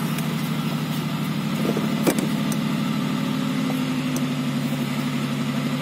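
Toyota 1JZ-GTE turbo inline-six, swapped into a Kijang, idling steadily and evenly while its setup is tuned by trial and error, heard from inside the cabin. A single sharp click comes about two seconds in.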